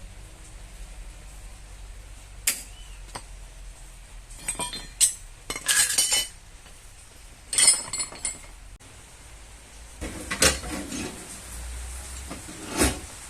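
Metal tools clinking and clanking against each other, in irregular clusters of sharp knocks and rattles over a low steady hum.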